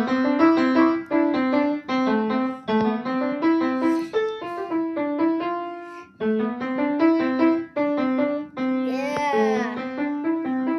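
Piano playing a quick melody of short, separate notes, with a brief break about six seconds in.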